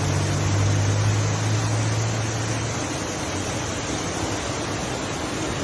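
Steady rushing of fast-moving floodwater, with a low vehicle engine hum underneath that fades out about halfway through.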